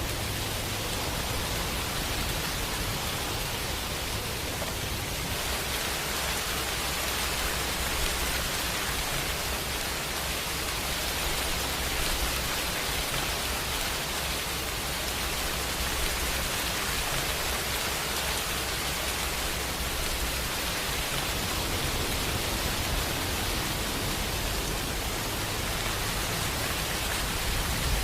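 Steady rain: an even, continuous hiss of falling rain, with a low rumble underneath that swells and fades.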